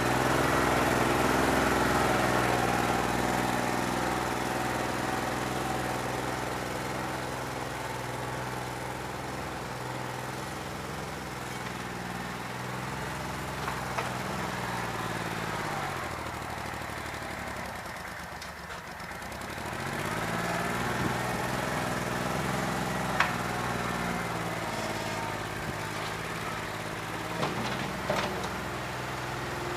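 New Holland 1320 compact tractor's diesel engine running, its speed sagging and picking back up several times, with a few sharp clicks. The engine has a bad injector.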